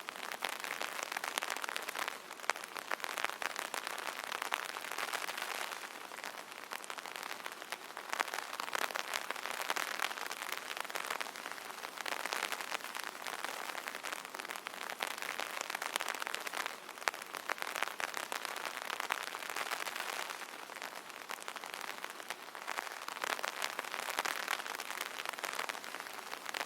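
Rain pattering on an umbrella canopy: a dense, steady spatter of drops that swells and eases every few seconds.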